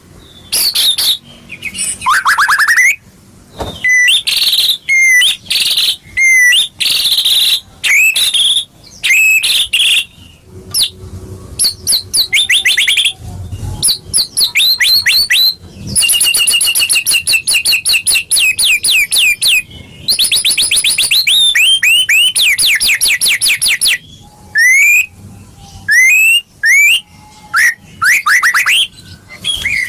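White-rumped shama (murai batu) singing a loud, varied song: clear whistled notes, fast trills of repeated sweeping notes and harsher chattering phrases, broken by short pauses.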